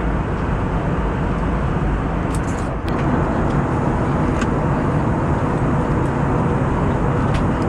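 Steady cabin noise of an Airbus A320neo airliner in flight: an even rush of airflow and engine noise heard from inside the cabin, with a few faint clicks.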